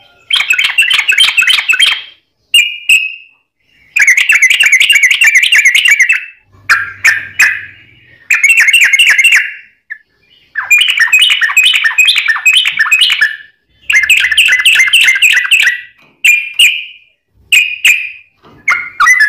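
Yellow-vented bulbul (trucuk) singing fast, loud chattering phrases of rapid notes, each one to two and a half seconds long, one after another with only short breaks between them.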